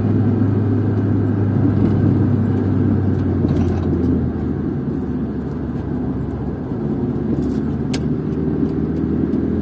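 Car driving noise heard inside the cabin: a steady low engine hum with road and tyre noise, easing a little about four seconds in, with a faint rising tone near the end as the car speeds up.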